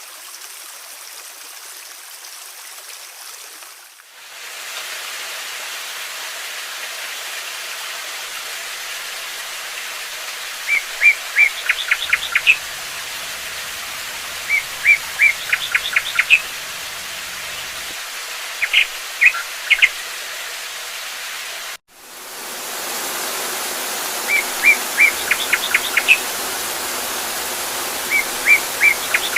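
Steady rushing water, changing abruptly to a louder, fuller rush about four seconds in and again near the end. From about eleven seconds in, a songbird repeats a short song every three to four seconds: a few clear notes, then a quick trill.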